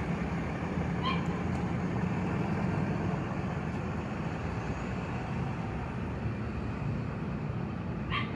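Heavy truck engine running steadily with a low rumble. There are two brief faint high chirps, about a second in and again near the end.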